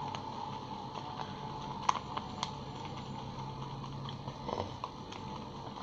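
A few light clicks and taps, two sharp ones about two seconds in, over a faint steady room hum.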